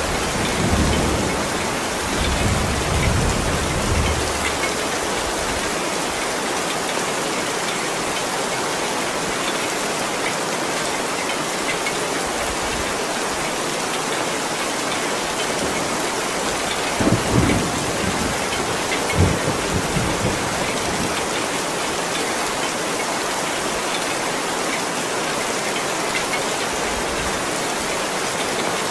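Heavy rain falling steadily in a dense, even hiss. A low rumble of thunder comes in the first few seconds, and two short low thuds follow about two-thirds of the way through.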